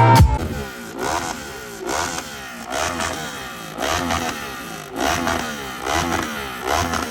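Motorcycle engine revved over and over, its pitch rising and falling back about once a second. Edited-in music cuts off at the very start.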